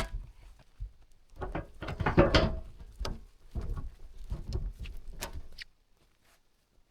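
A log being rolled and pushed by hand, giving a run of irregular wooden knocks and scrapes that stops about five and a half seconds in.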